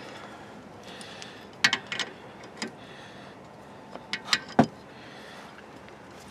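Hand tools clinking and knocking as they are handled at a car's front brake, a few sharp metallic clicks in small clusters with one heavier knock about four and a half seconds in.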